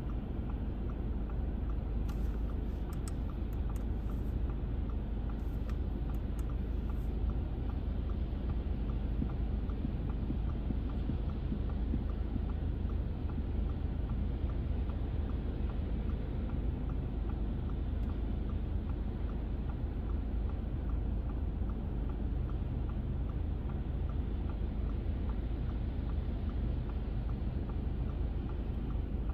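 Steady low rumble and tyre noise of a car driving on wet, slushy roads with melting snow, heard from inside the car. A few faint clicks come a couple of seconds in.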